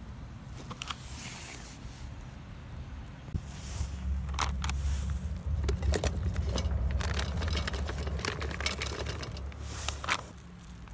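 A busy run of sharp clicks, scrapes and light knocks, as of gear being handled, over a steady low rumble; the clicks thin out near the end.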